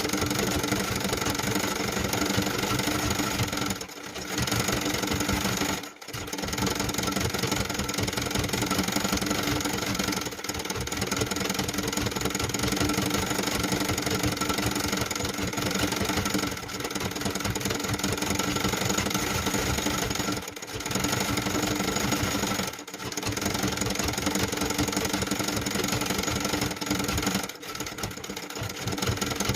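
Sewing machine running at speed, stitching in long stretches with several brief stops.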